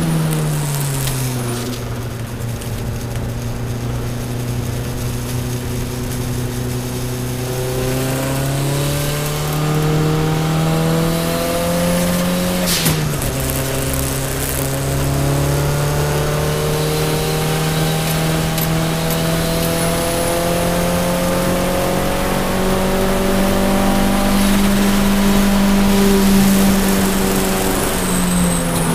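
Toyota Celica All-Trac's turbocharged four-cylinder engine, heard from inside the cabin as the car laps a race track. The engine note falls about a second in, then climbs slowly under acceleration. About 13 seconds in it drops sharply with a click, climbs steadily again, and dips once more near the end.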